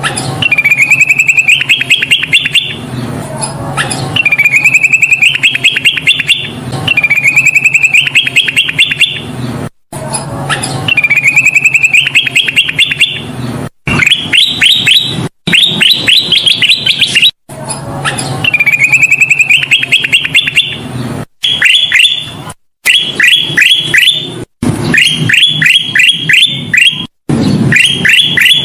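Kutilang emas (ruby-throated bulbul) singing loud, clear song phrases over and over, each a quick run of rising notes, with several abrupt silent breaks where the recording has been cut and looped.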